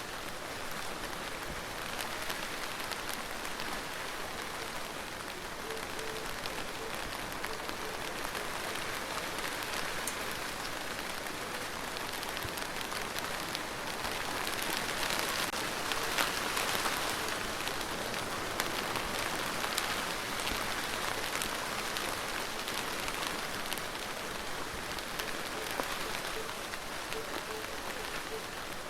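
Steady rain falling: a dense hiss full of individual drops ticking, growing a little heavier about halfway through and then easing back.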